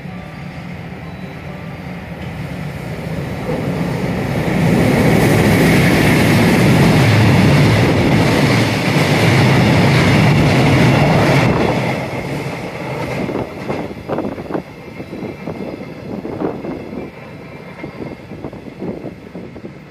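A train passing through the station without stopping: a rushing noise that builds, holds loud for about seven seconds, then gives way to wheels clattering over rail joints as it draws away.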